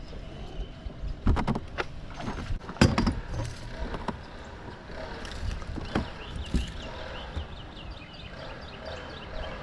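Scattered sharp knocks and clatter aboard a bass boat as a caught bass is landed and handled, over a steady low wind rumble on the microphone. In the second half a run of short high chirps is heard.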